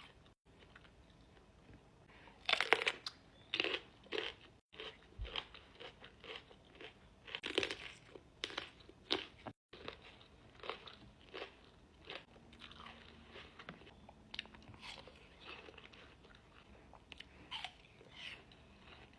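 A person biting into and chewing crisp fresh fruit close to the microphone, with irregular crunches, the loudest a few seconds in.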